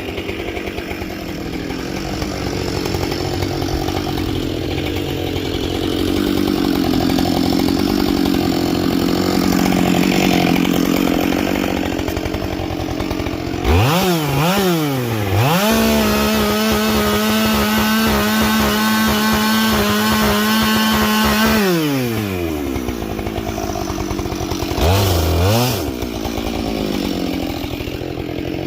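Husqvarna 572 XP two-stroke chainsaw with a carbide-tipped chain. For about the first half it runs under load, cutting wood. Then it revs up sharply, holds a steady high pitch at full throttle with the chain running free, and drops back to idle, with one short blip of the throttle near the end.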